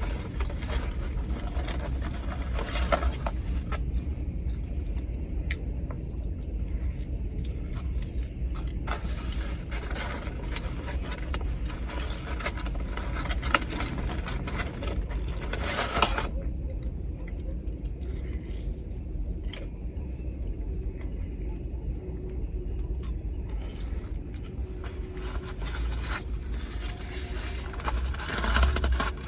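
Close-up eating sounds: chewing and the rustle and scrape of fast-food packaging, in many short irregular clicks and crackles over a steady low rumble.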